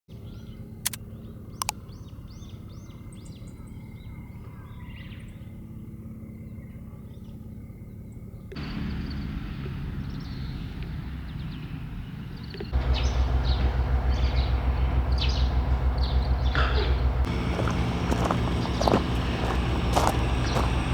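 Birds chirping over a low steady hum, then the low rumble of a running road vehicle, heard as it gets louder in two sudden steps, with scattered clicks and rattles over it.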